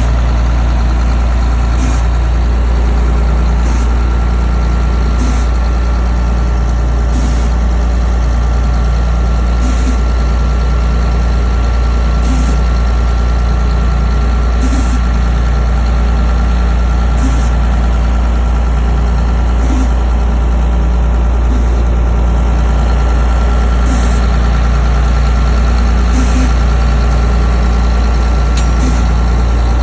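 Vehicle engine idling steadily while being given a hydrogen carbon-cleaning treatment, with a light tick recurring about every two to two and a half seconds.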